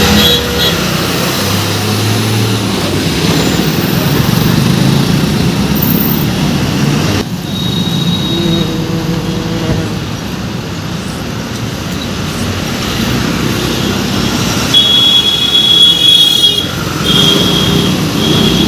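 Heavy road traffic with trucks going by: a continuous run of engine and tyre noise. A high steady tone sounds briefly about eight seconds in and again a few times near the end.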